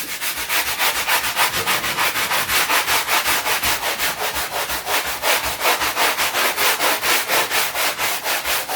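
Small scrub brush scrubbing a painted wall coated with cleaning product, in quick, even back-and-forth strokes.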